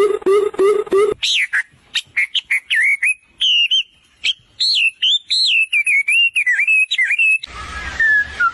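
Birdsong from several different birds in quick succession. First comes a low call repeated about four times a second, which stops abruptly about a second in. Then comes a high, varied chirping and whistling song with some clicks, and near the end a single whistled call over background hiss.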